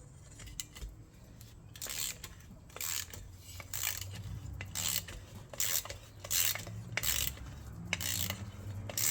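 Repeated short scraping or rubbing strokes on metal, starting about two seconds in and coming roughly once a second.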